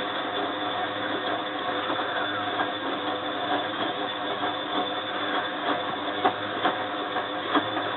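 Bosch WFF2000 front-loading washing machine running near the end of its wash cycle: a steady mechanical hum with several held tones, and a few light clicks in the second half.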